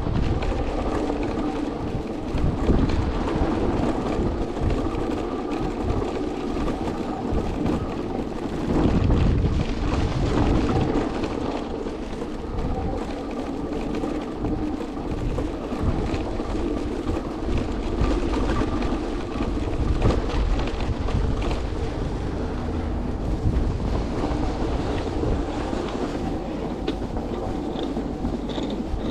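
Electric board riding over snow: a steady motor whine and the rumble of its wheels, under heavy wind buffeting on the microphone.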